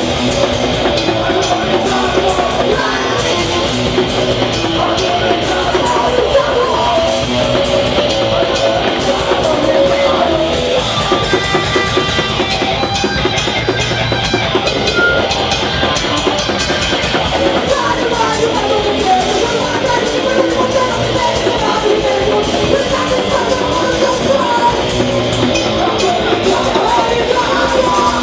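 Hardcore punk band playing live: fast distorted electric guitars, bass and pounding drum kit, with shouted vocals at times.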